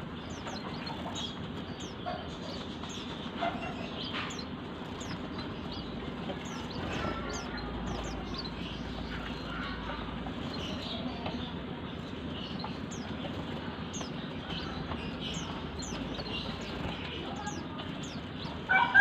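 Small aviary birds chirping, many short high calls repeated throughout over a steady hiss. A rooster starts crowing loudly right at the end.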